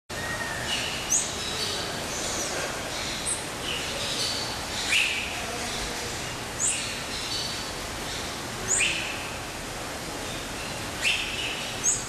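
Aviary birds calling: sharp, high rising chirps about every two seconds over softer twittering and a steady background hiss.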